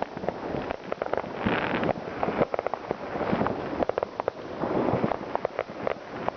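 New Year's Eve fireworks going off all around: a continuous stream of firecracker bangs and crackling, some in quick runs, over a steady background rumble of more distant blasts.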